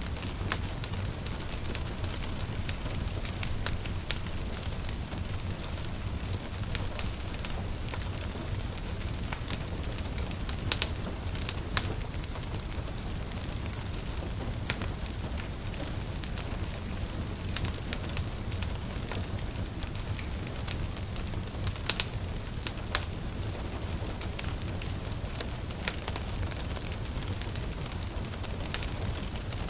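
Wood fire crackling in a fireplace, with frequent sharp pops and a few louder snaps, over the steady hiss of gentle rain.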